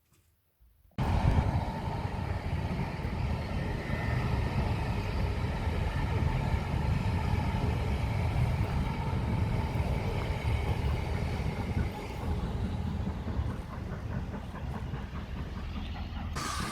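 A train running: a loud, steady low rumble that starts abruptly about a second in.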